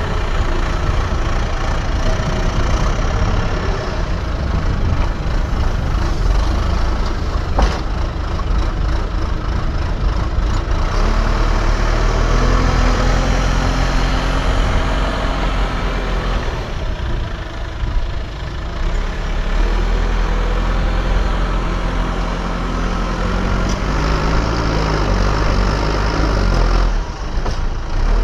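Diesel engine of earthmoving machinery running and working, its pitch shifting up and down with the load. There is a sharp knock about eight seconds in.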